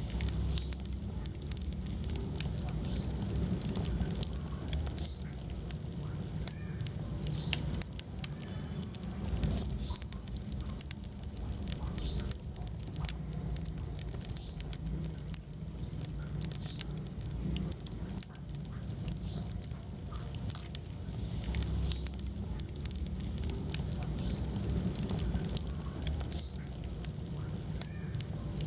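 Wood fire burning in a fireplace, with a low steady rumble and scattered sharp crackles and pops.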